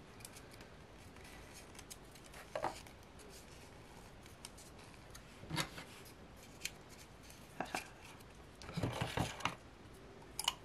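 A small paper note being rolled up tightly by hand and fed back into a miniature message-in-a-bottle: faint paper rustling broken by scattered small clicks and crinkles, busiest about nine seconds in.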